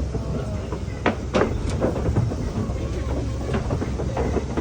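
Safari ride truck running over a rough track: a steady low engine and road rumble with irregular knocks and rattles from the bumping vehicle.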